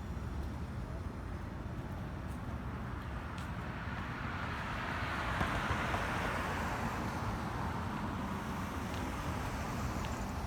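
Street traffic with one vehicle passing close by, its tyre and engine noise swelling to its loudest about halfway through and then fading, over a steady low rumble of wind on the microphone.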